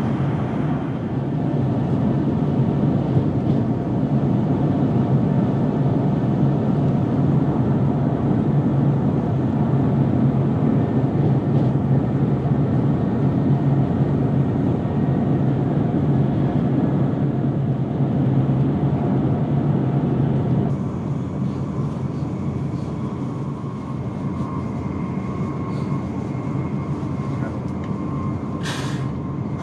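Steady rumble and rush of a Eurostar high-speed train at speed, heard from inside the passenger coach. In the first second a train passing on the adjacent track adds a brief rush; the noise drops a step about 21 seconds in, and a short high hiss comes near the end.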